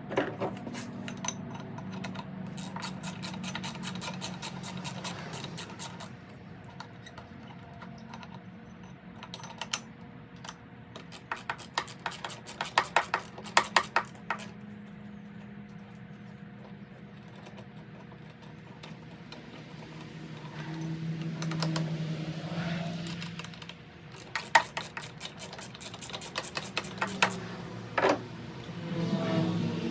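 Small hand tools clicking and rattling against metal in quick runs while a Stihl BR340 leaf blower is being taken apart, over a steady low hum.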